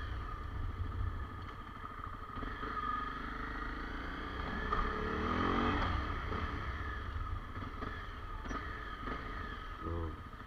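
Honda CRF250 Rally's single-cylinder engine running as the motorcycle is ridden slowly at low revs. The engine note rises and falls once about five seconds in.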